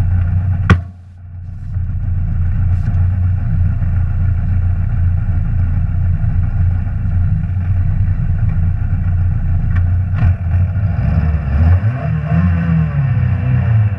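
Rally car engine running steadily, with a single sharp crack about a second in, then the revs climb and fall back near the end.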